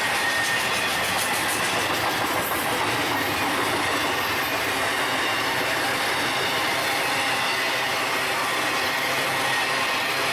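Freight train cars rolling past at steady speed, a continuous rumble of steel wheels on rail, with a faint high wheel squeal near the start.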